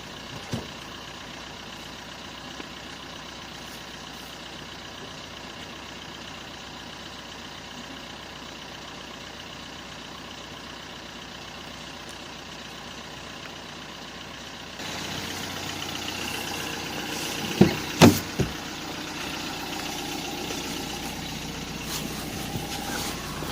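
Steady hum of a running road vehicle, engine and road noise together. It grows louder about two-thirds of the way through, with a few sharp knocks shortly after.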